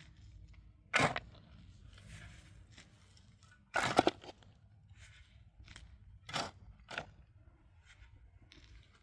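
Four separate crunching knocks at uneven spacing, the one near four seconds in the loudest and doubled, with quiet between them.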